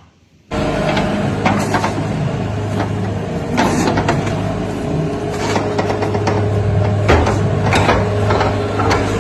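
A machine's motor running steadily, starting suddenly about half a second in, with irregular clicks and clatters over it.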